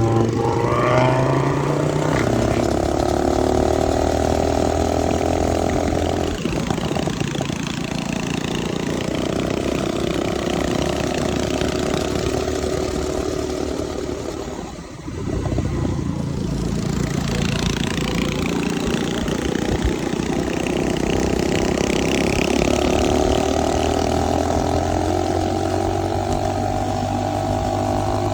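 Mini bike's small engine running under throttle: it revs up at the start and holds high, eases off about six seconds in, nearly dies down briefly around fifteen seconds, then picks up and revs high again.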